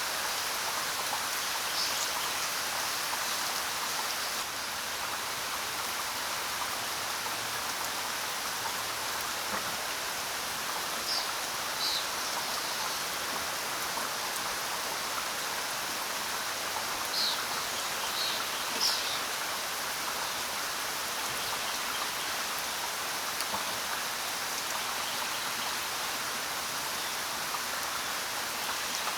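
Steady rain falling. A few short, high bird chirps come through it, mostly in the middle stretch.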